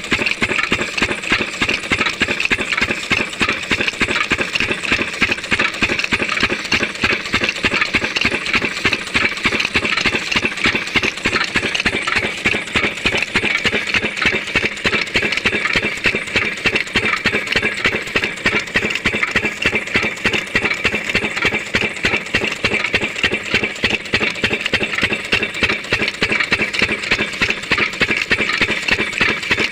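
A 12 hp diesel water-pump engine running steadily, with a rapid, even beat that holds unchanged throughout.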